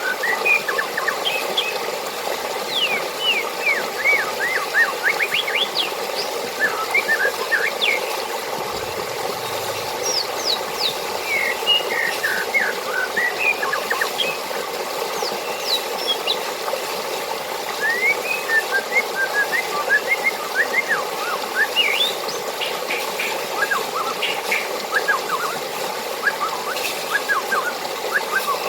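Steady rush of water with many small birds chirping over it in quick series of short, falling notes.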